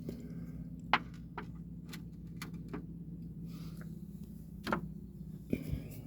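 A few sharp clicks and knocks of stone tools being handled and set down, the loudest about a second in, over a steady low hum.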